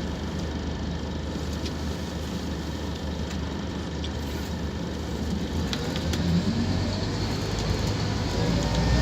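Scania K230UB Omnilink bus's diesel engine, steady and low for the first half, then getting louder from a little past halfway with its pitch rising as the bus accelerates. A few sharp rattles are heard over it.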